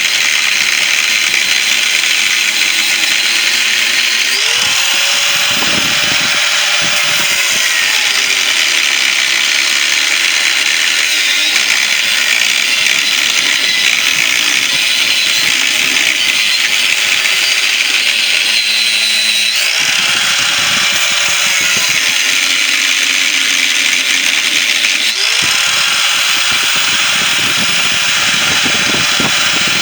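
Power tool cutting into the steel shell of a refrigerator compressor: a loud, steady, hissing cutting noise throughout, with a lower motor tone that comes and goes three times.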